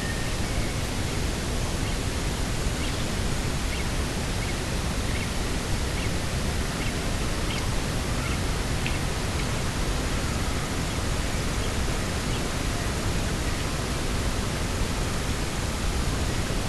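Steady coastal outdoor ambience: an even, rushing hiss of wind and sea. Faint, short high chirps of small birds are scattered through it.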